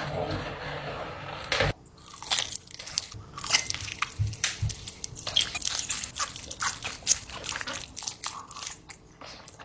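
Biting into and chewing a giant sour candy close to the microphone, with many irregular crunching snaps. A steady hiss comes first, for about a second and a half.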